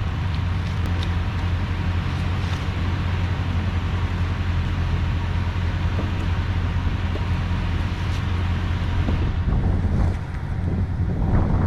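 Concrete mixer truck's engine running steadily with a deep, even hum. The higher hiss thins out about nine seconds in.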